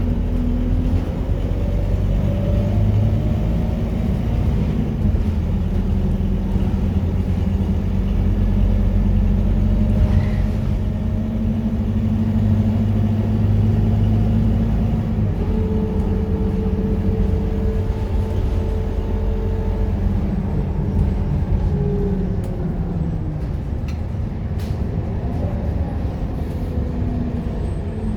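Scania K230UB bus's five-cylinder diesel engine running while the bus drives, a loud low drone whose engine tone holds steady for the first half, shifts about halfway through, then falls away again near the end.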